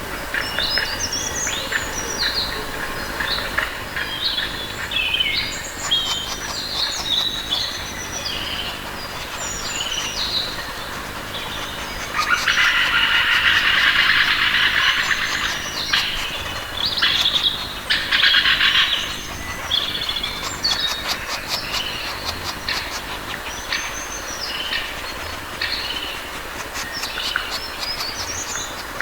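Birdsong: several birds chirping and calling in short rising and falling whistled notes, with a louder, dense stretch of chattering for about four seconds near the middle.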